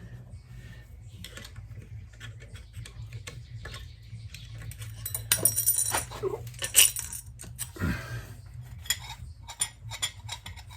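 Metal tools and engine parts clinking and scraping as a cover is pried off a Yamaha Venture motorcycle engine, with a run of louder clanks around the middle.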